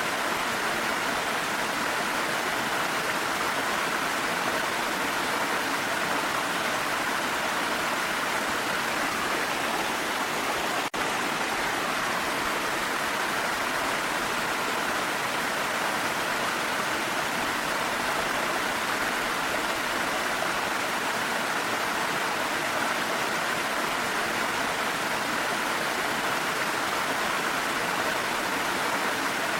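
Waterfall flow mixed with rain, a steady, even rush of water throughout, with a momentary dropout about eleven seconds in.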